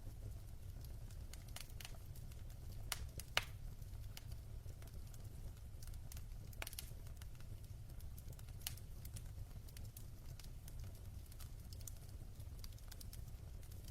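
Burning logs crackling in a fireplace: irregular sharp pops and snaps over a low steady rumble, the loudest pop about three and a half seconds in.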